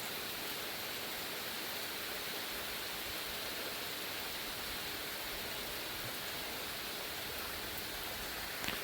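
Steady rain falling in a thunderstorm, an even hiss with one short tap near the end.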